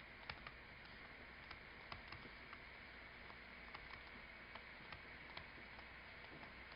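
Near silence: faint room tone with scattered small, irregular clicks.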